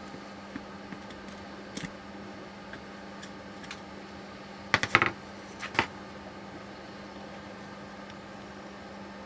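A few scattered clicks, then a quick cluster of sharp knocks about five seconds in and one more just after, from parts and tools being handled while a steering rack is taken apart. A steady low hum runs underneath.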